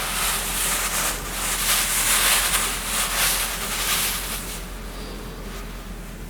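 A hiss that swells over the first couple of seconds, stays loud to about four seconds in, then fades, over a steady low hum.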